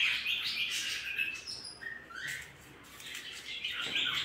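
A caged pet bird chirping: short high calls in quick runs, with a quieter gap in the middle before the chirping picks up again near the end.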